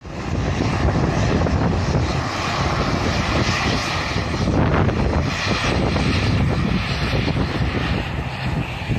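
Jet airliner's engines running loud and steady at close range, with wind buffeting the microphone.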